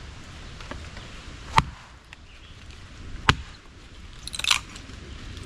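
Estwing Sportsman hatchet chopping into a piece of wood to split it into quarters: two sharp strikes about a second and a half apart, then a short crackling tear as the wood splits.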